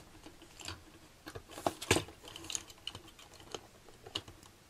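Small plastic model-kit parts of a Super Minipla Genesic GaoGaiGar clicking and knocking together as they are handled and test-fitted: irregular light clicks, with a louder click a little under two seconds in.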